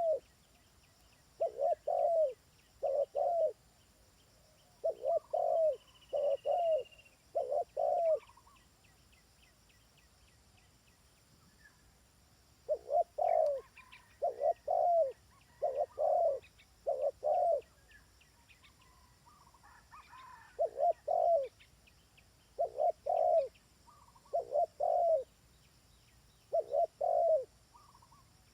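Dove cooing: short low coos in groups of two or three, repeated with gaps of a few seconds, a call used to lure birds for trapping. Faint high chirps from other small birds sound in the background.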